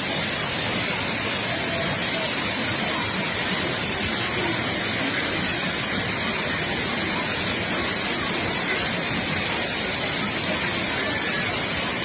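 Waterfall: a steady, unbroken rush of falling water, heavy in high hiss and even in level throughout.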